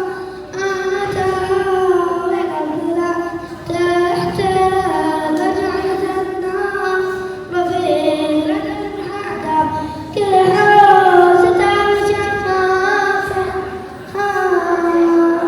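A boy singing a nasheed solo in long, held melodic phrases, pausing briefly for breath between them.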